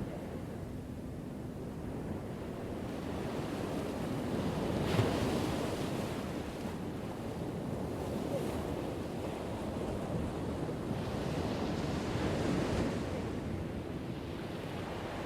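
Ocean waves breaking on a shore: a steady wash of surf that swells to a crash about a third of the way in and again past three-quarters of the way through.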